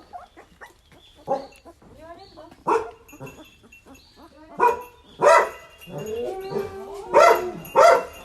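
A dog barking in single sharp barks, about six in all, with a drawn-out whine between the last few.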